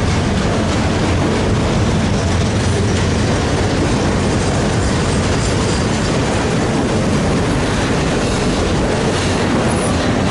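Freight train rolling past, its cars' wheels clacking over the rail joints with a steady, loud rumble.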